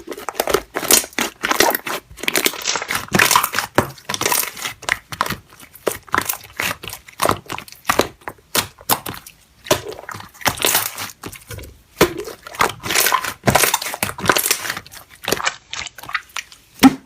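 Slime being squished and pressed by hand, giving dense, irregular crackling and popping.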